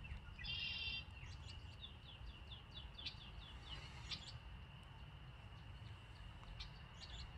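Wild songbirds calling: a short buzzy song phrase about half a second in, then a run of quick, downward-sweeping chirps, over a low steady outdoor rumble.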